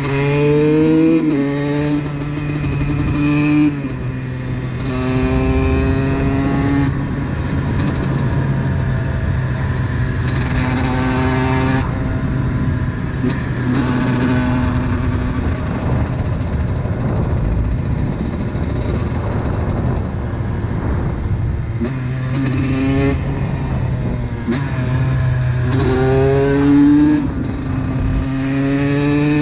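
Honda CR125's 125 cc two-stroke single-cylinder engine revving hard, its pitch climbing and breaking off again and again as the rider accelerates and shifts gear, with stretches off the throttle in between.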